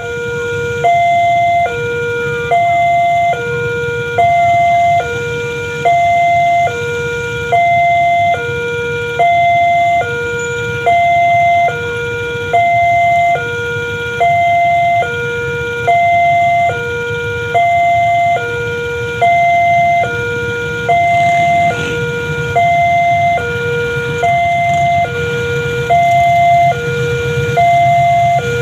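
Railway level-crossing warning alarm: an electronic two-tone signal alternating high and low about once a second without a break, over a steady low rumble.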